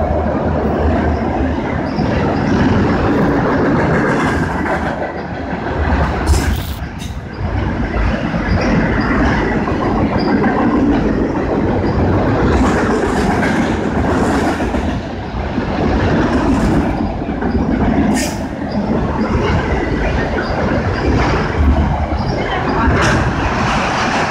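A train rolling past at close range: a steady rumble of steel wheels on rail with repeated clattering thumps, and a few brief high metallic squeals from the wheels.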